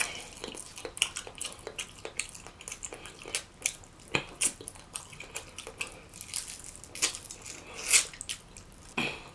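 Close-miked wet eating of rotisserie chicken dipped in cheese sauce: chewing and lip smacking heard as a run of irregular sticky clicks, the loudest smack about eight seconds in.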